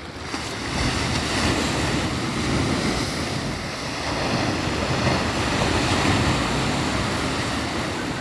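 Black Sea surf breaking and washing on the shore in slow swells, with some wind on the microphone.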